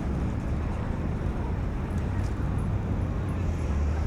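Steady low rumble of city traffic passing on the street.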